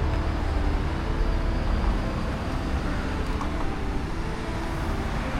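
City street traffic noise: a steady low rumble of passing road vehicles.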